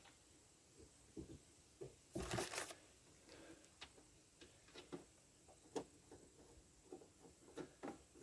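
Faint handling sounds of plastic cab trim parts: scattered small clicks and light knocks, with a brief louder rustling scrape about two seconds in.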